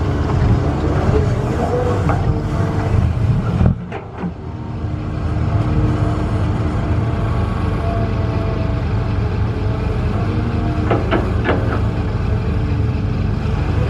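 Heavy diesel machinery engine running steadily, dipping briefly about four seconds in, with a couple of short knocks near the end.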